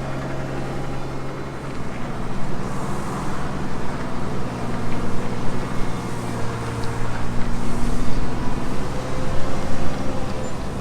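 A vehicle engine running steadily with a low hum, while the truck is loaded onto the trailer.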